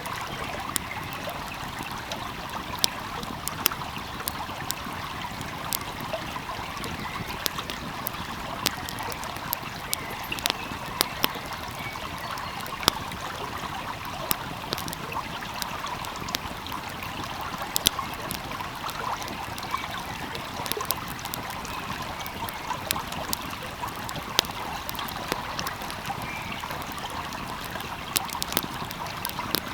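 Steady rush and trickle of a flowing stream, with a wood fire crackling over it in frequent sharp, irregular pops.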